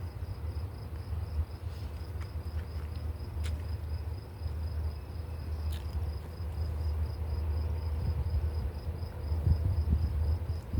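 Crickets chirping steadily in a high, even pulse of about three chirps a second, over a low rumble that grows louder near the end.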